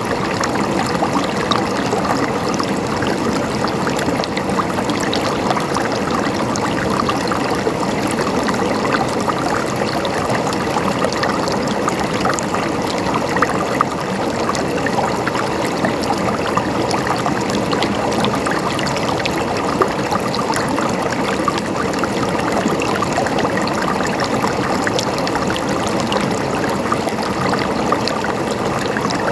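Water flowing and gurgling steadily in a stream, full of small splashes and droplet sounds, with a few slightly sharper splashes now and then.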